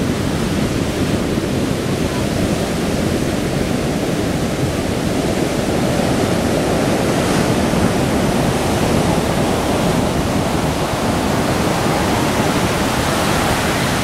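Rough ocean surf from a hurricane swell breaking and washing on the beach: a loud, steady wash of noise.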